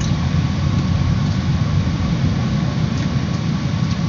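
A car's engine running, heard from inside the cabin as a steady low rumble.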